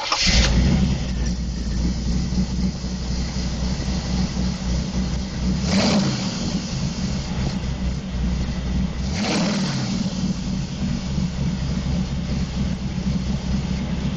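1985 Chevrolet Camaro engine idling, with brief revs of the throttle near the start, about six seconds in and about nine seconds in.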